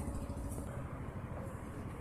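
Low rumble of a motor vehicle's engine running in the background, easing off slightly.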